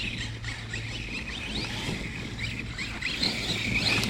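Arrma Kraton 6S electric RC car's brushless motor whining in many short rising bursts as it is throttled on and off, over a steady low hum.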